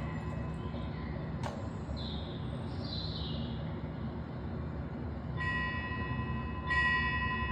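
A small metal bell is struck twice, about a second and a half apart near the end, each strike ringing on with a clear, sustained tone over a steady hiss of background noise. A few faint chirps sound a couple of seconds in.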